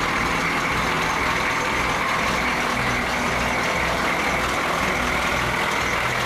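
Humvee's V8 diesel engine running steadily at idle, a low even rumble.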